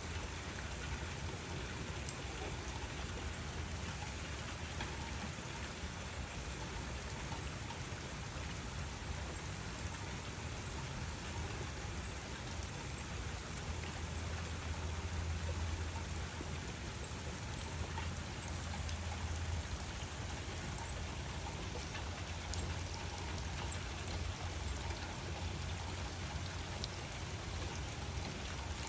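Steady rain falling, an even hiss with scattered drop ticks. A low rumble underneath swells for a few seconds in the middle.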